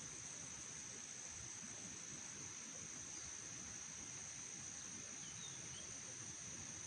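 Insects trilling steadily in one high, unbroken tone, with a few faint short chirps about three and five seconds in.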